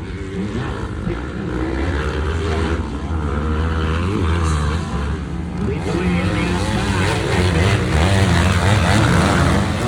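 Motocross dirt bike engines revving on the track, their pitch rising and falling irregularly as the throttle is worked.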